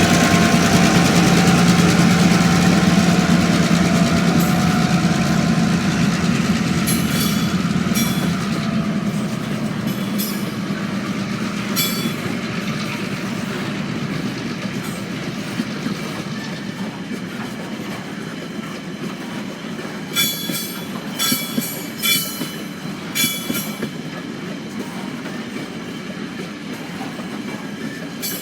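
Loaded ore wagons of a freight train rolling past, with a steady rumble and clatter from the wheels that slowly fades. Diesel locomotive engine hum dies away in the first few seconds. From about a third of the way in, short high-pitched wheel squeals come again and again, bunched closely near the end.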